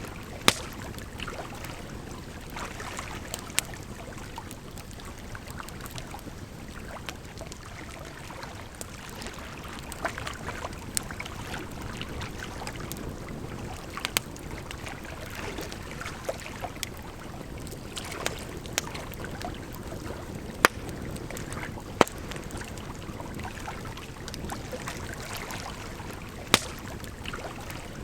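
Campfire crackling, with sharp irregular pops and snaps, over a steady rush of flowing water.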